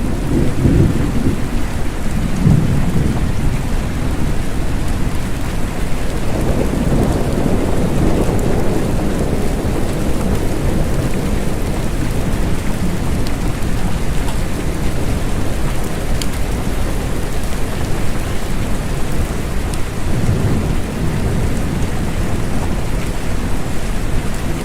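Steady rain falling, with low rolls of thunder swelling and fading three times: at the start, about a third of the way in, and again near the end.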